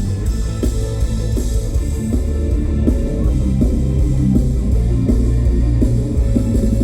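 Band music with electric guitar, a drum kit and heavy bass, playing a steady beat.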